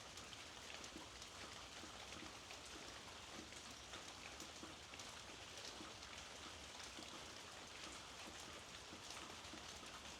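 Steady, soft rainfall with many small drops pattering on surfaces.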